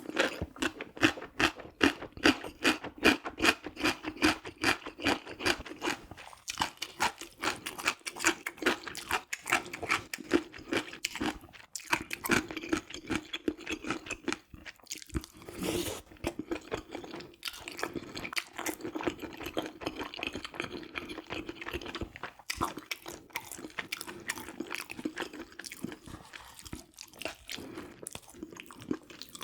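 Close-miked chewing of food: quick, repeated mouth clicks and crunches, busiest in the first several seconds, then steadier and softer.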